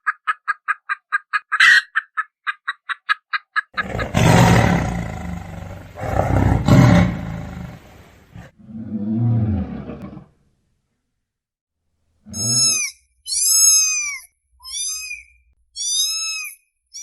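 A run of different animal calls: a fast pulsed chatter of about six pulses a second, then two long deep roars and a shorter growl, then after a pause four high, arching cries.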